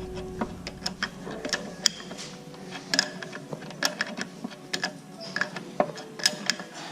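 Irregular metallic clicks and clinks of a wrench working hydraulic hose fittings tight on their O-ring seals.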